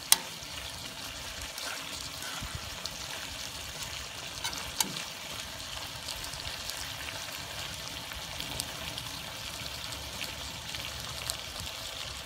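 Pork and vegetables sizzling in a nonstick wok while being stirred with a metal spoon, a steady hiss with a few sharp clicks of the spoon against the pan, the loudest right at the start.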